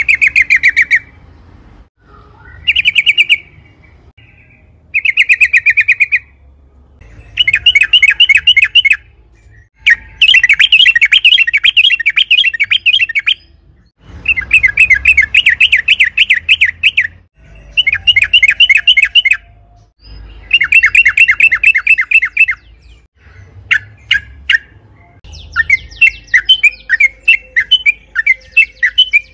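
Yellow-vented bulbul (trucukan) singing in bursts of fast, rattling repeated notes, each burst lasting one to three seconds with short pauses between. Near the end the song breaks into looser, more varied chattering notes.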